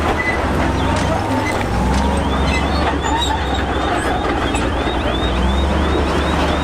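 Heavy diesel earthmoving machinery running under load, with a steady low engine drone and a dense grinding rumble. From about two seconds in, a high squeak repeats about three times a second.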